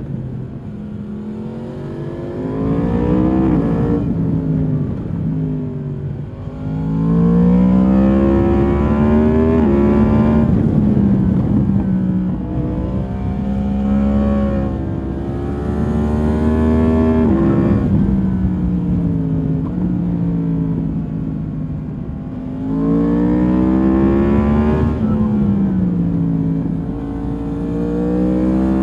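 2022 Yamaha MT-10's crossplane inline-four running through its stock exhaust while being ridden. The engine note rises several times under throttle and falls back on shifts and when rolling off, holding steadier for a few seconds midway.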